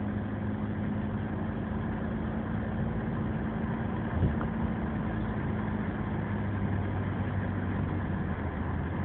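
Old Mercedes car's engine and leaky exhaust heard from inside the cabin while driving, a steady low drone. A brief knock about four seconds in.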